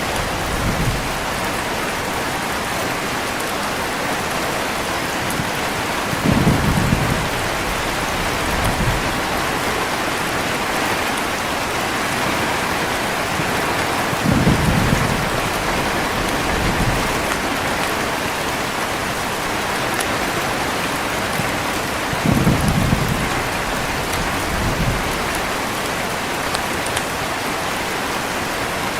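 Steady heavy rain, with short low rumbles of thunder that come back at even intervals about every eight seconds, each followed by a smaller rumble a couple of seconds later.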